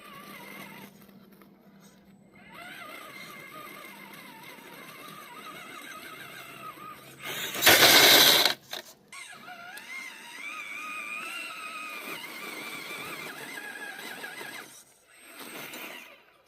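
Small electric RC crawler motor and gearbox whining, its pitch wandering up and down with the throttle. A loud, short rush of noise cuts in about halfway through.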